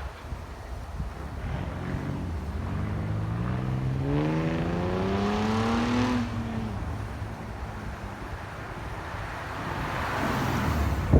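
2010 Ford Mustang's 4.0-litre V6 running through a custom H-pipe and SLP Loudmouth exhaust, accelerating: the exhaust note climbs steadily in pitch for about four seconds, then drops away. A rush of wind noise builds near the end.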